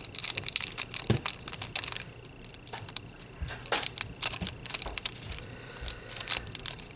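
Crinkling and small clicks of nail-art supplies being handled on a work surface, thick for the first two seconds, then sparse scattered ticks.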